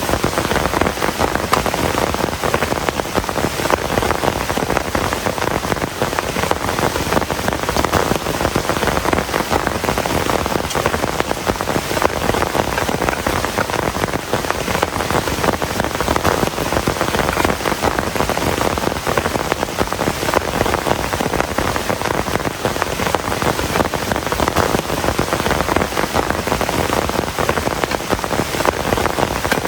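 Heavy rain falling steadily, a dense continuous patter of drops.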